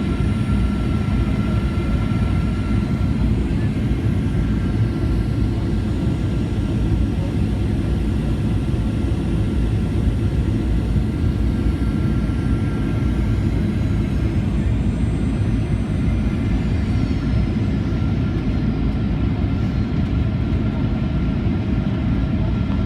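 Steady low roar of a Boeing 737-800's CFM56 engines and airflow heard inside the cabin, with faint steady whines above it. About fourteen seconds in, a faint high whine falls in pitch.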